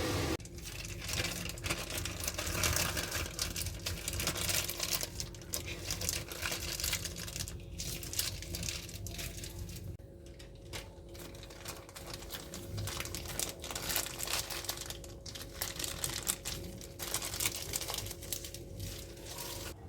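Plastic packaging crinkling and rustling as it is handled, in irregular crackles, over a faint steady appliance hum.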